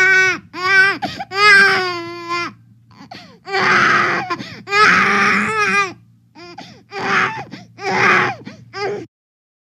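A baby crying in a run of short wails, some of them harsh and strained. It breaks off suddenly about a second before the end, over a faint steady hum.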